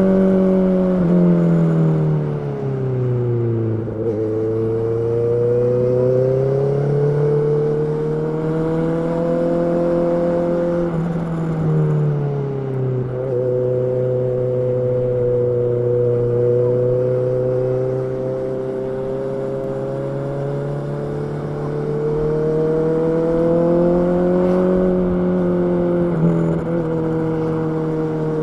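Honda CB650R's inline-four engine running, its pitch dropping about two to four seconds in, rising again, falling near twelve seconds, holding steady for several seconds, then rising and easing off near the end.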